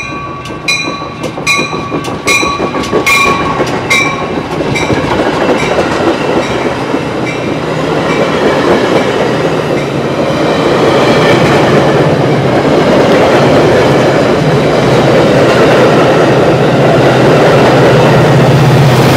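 Metra bilevel commuter train passing close by, its wheels running on the rails and growing steadily louder as the cars go past. Over the first few seconds a bell rings about once every three-quarters of a second, fading under the train noise.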